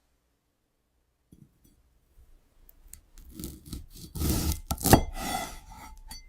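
A blade cutting through a crunchy, glass-like fruit slice: a few faint ticks, then a dense crackling crunch that builds to one loud snap about five seconds in, with brief ringing tones after it.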